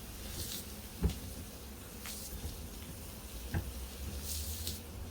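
Bacon-wrapped stuffed zucchini sizzling on an oiled cast-iron plate over an open fire, the hiss swelling and fading a few times, with two short knocks.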